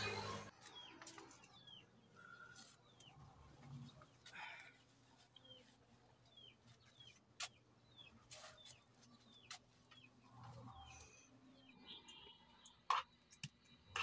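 Faint bird calls: short chirps that slide downward in pitch, repeated roughly once a second, with a few scattered clicks.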